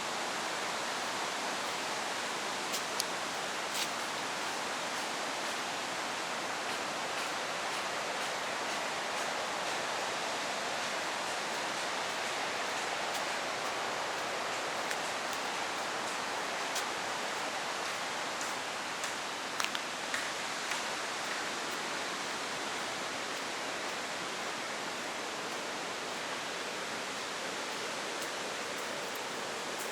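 Steady rush of a waterfall, with a few faint clicks now and then.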